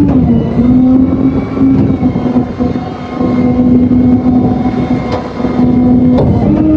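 Flatbed tow truck's engine running steadily as it drives, a loud even drone over road rumble. The pitch dips slightly just after the start and steps back up near the end.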